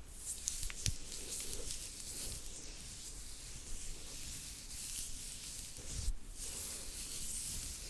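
Soft, steady rubbing noise close to the microphone, with a brief pause about six seconds in.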